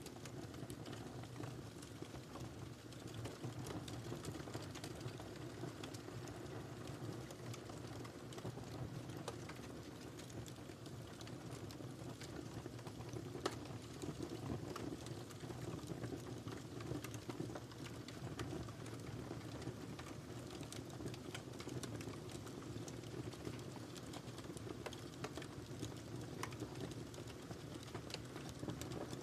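Wood fire crackling in a fireplace: a steady low rumble of flames with irregular small pops and snaps, one louder pop about halfway through.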